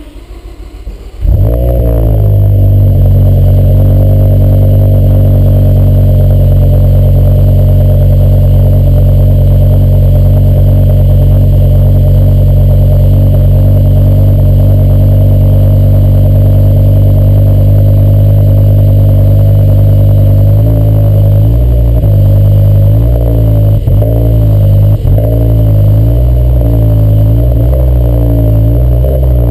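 BMW M6 engine on its stock exhaust starting about a second in, flaring briefly and then settling into a steady idle. Near the end it is given several short throttle blips, the pitch rising and falling with each.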